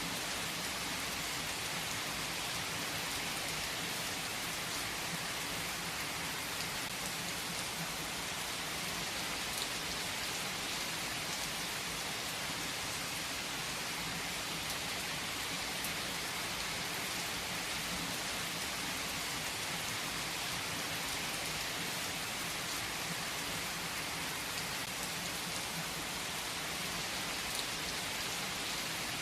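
Steady rain falling, an even hiss of many drops with occasional individual drip ticks.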